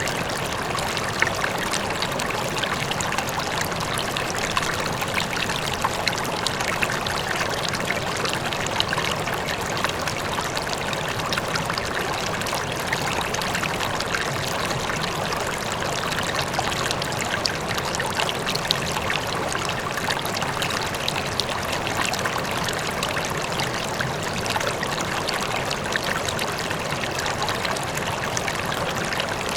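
River flowing over rocks, a steady rushing and splashing with small bright trickles and gurgles over it, and a faint waterfall far off.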